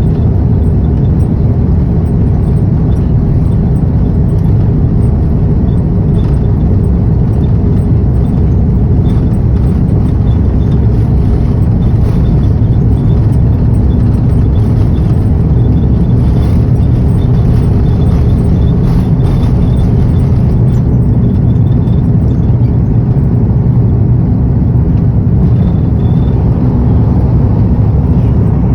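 Jet airliner cabin noise in flight: a steady low rumble of engines and rushing air.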